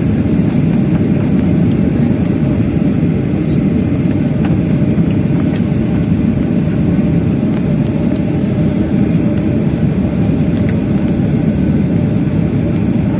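Cabin noise of a Boeing 737-800 during takeoff, heard from a window seat over the wing: a steady, loud, low rumble of the CFM56 engines and the runway, with light scattered rattles.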